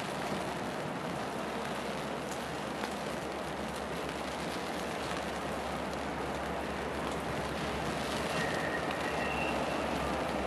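Steady hiss of light rain and wind over the low, distant rumble of an approaching diesel freight train, growing slowly louder toward the end.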